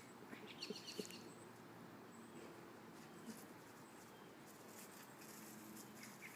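Near silence: faint outdoor ambience, with a few soft ticks and faint high chirps in the first second.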